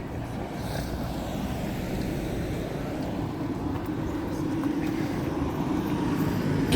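An engine running steadily and slowly getting louder, a low hum building over the last few seconds.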